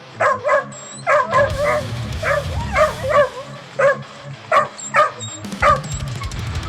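A dog giving about a dozen short, high barks in quick succession over background music.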